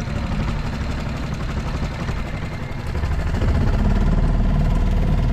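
Small boat's outboard motor running at low speed with a steady hum, growing louder about three seconds in.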